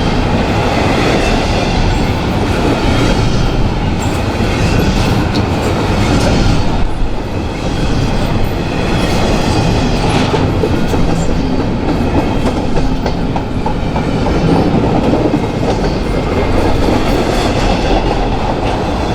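Train cars rolling past on the rails: a steady, loud rumble of wheels on track with occasional clicks.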